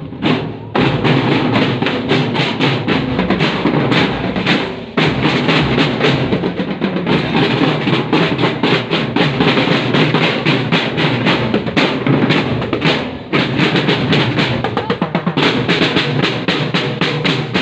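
Drum band percussion playing: snare and bass drums beating a fast, dense rhythm, dropping out briefly twice.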